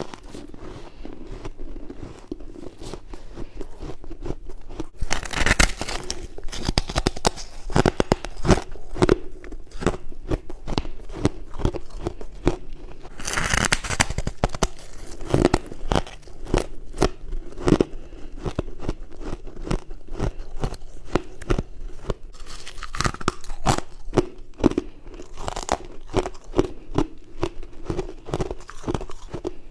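A person biting and chewing frost close to the microphone: crisp crunches in quick, irregular runs, with several louder bites.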